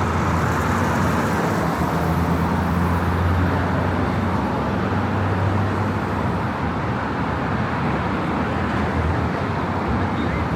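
Steady road traffic on a city street, cars passing, with a low engine drone that grows strongest in the first half and then eases.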